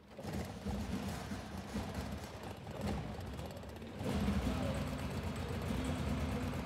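Four-cylinder carbureted gasoline engine running on glow plugs instead of spark plugs, firing roughly and unevenly, just after the choke was pushed in and it was said to be running too lean to keep going. About four seconds in it changes to a louder, steadier running sound.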